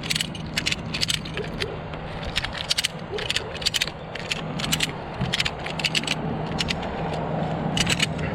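Ratchet strap being cranked tight around a split tree trunk: a run of irregular metallic clicks from the ratchet, over the steady hum of the bucket truck's engine running.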